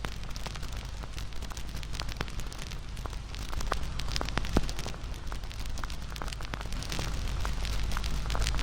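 Wood campfire burning, with steady irregular crackling and popping over a low rumble of the flames, and one louder pop about halfway through.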